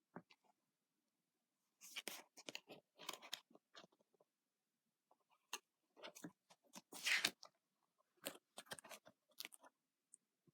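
Faint crinkling, rustling and clicks of paper being handled, as of a picture book's pages being turned, in scattered short bursts with the loudest rustle about seven seconds in.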